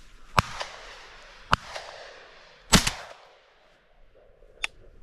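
Shotgun blasts: three shots about a second apart, each trailing off in echo, the third the loudest. A fainter, sharp report comes near the end.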